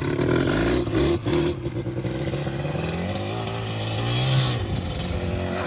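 Small off-road engine, just kick-started, running and revving: its pitch climbs to a peak about four seconds in, then drops back.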